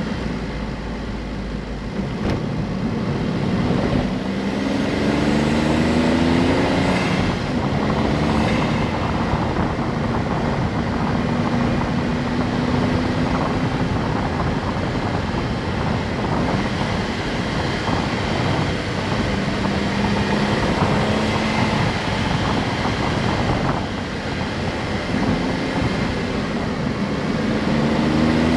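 Honda S660's small turbocharged three-cylinder engine pulling under way, its pitch rising about four seconds in, dropping back and holding steady, then rising again near the end, over heavy road and wind noise.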